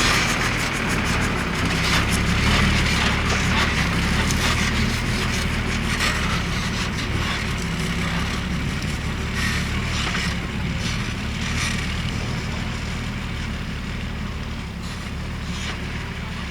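Diesel engine of a heavily loaded sand tipper truck running steadily, with light rattles and clicks over it, growing gradually fainter.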